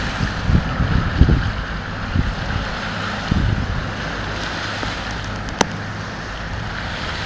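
Wind buffeting the phone's microphone over the steady low hum of a boat and the wash of waves. The gusts ease after the first few seconds, and there is one sharp click about five and a half seconds in.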